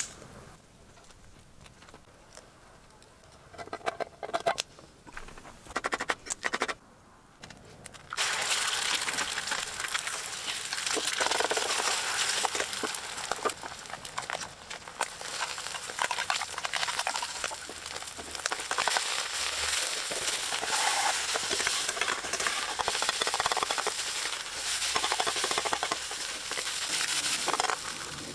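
A few light knocks and clicks, then about eight seconds in a steady sizzle and crackle starts: food frying in an iron frying pan over a campfire.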